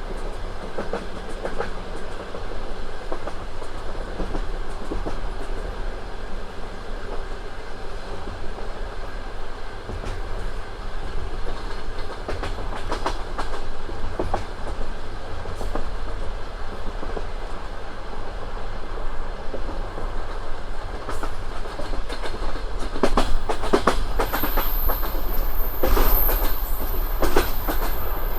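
Russian passenger train carriage running on the rails, with a steady low rumble and the clickety-clack of wheels over rail joints. From about 24 seconds a high, steady squeal joins, with more clatter, as the train slows for a stop.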